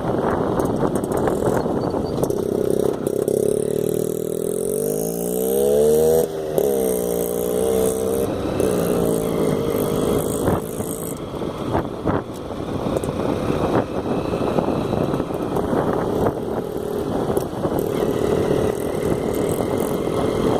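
Motorcycle engine running on the move over a steady rush of riding noise, revving up to a peak about six seconds in, then easing off and settling back to a steady pitch.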